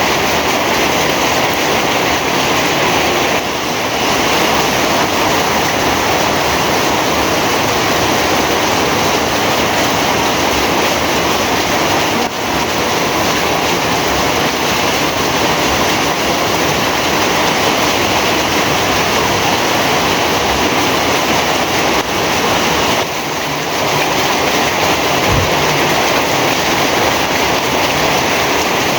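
Heavy rain pouring steadily, a dense, even hiss of falling water.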